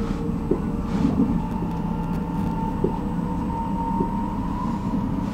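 Inside a Stockholm commuter train running along the track: a steady low rumble with a thin whine over it, and a few light knocks.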